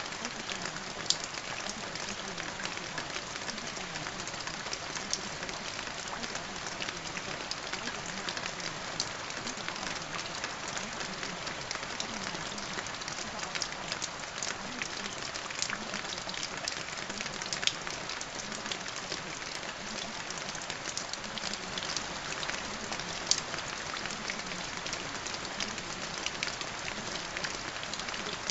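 Steady rain falling: an even hiss with many scattered drop ticks, and a few sharper, louder drops standing out, about a second in, past halfway and near the end.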